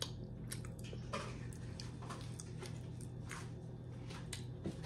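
Faint chewing and mouth clicks of people eating soft bread, over a steady low hum.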